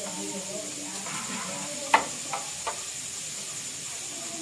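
Wild bee larvae and pupae dry-roasting in a pan, with a steady sizzle and hiss. Three sharp knocks from stirring come about two seconds in, the first the loudest.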